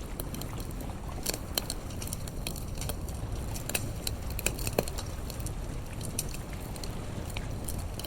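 Wood fire crackling, with irregular sharp pops and snaps, one louder pop about five seconds in, over a steady low rumble.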